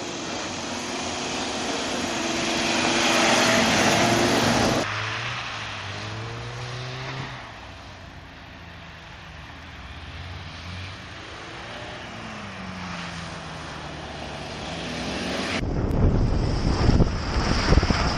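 Car engines revving hard, pitch rising and falling, as cars slide through a coned course on snow. The sound changes at two cuts. From about 15.6 s it is a car-mounted camera's view, where heavy wind buffeting on the microphone mixes with the engine.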